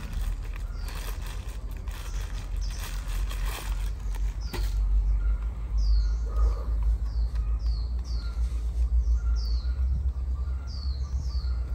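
Outdoor ambience: a bird chirping over and over in short, falling high chirps from about halfway in, over a steady low rumble.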